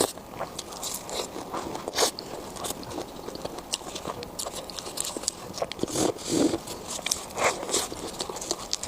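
Close-miked eating sounds: a person biting and chewing food, with many short sharp clicks and a louder stretch of chewing about six seconds in.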